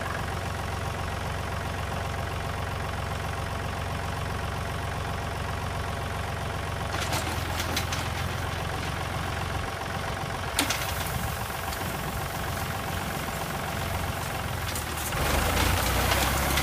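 Tractor engine running steadily as it drives a hay tedder through the power take-off, with a sharp click about ten seconds in and the sound growing louder near the end.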